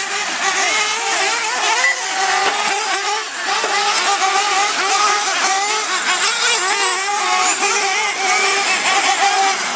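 Several engines of R/C monster trucks and truggies racing together, their pitches constantly rising and falling and overlapping as the cars speed up and slow down.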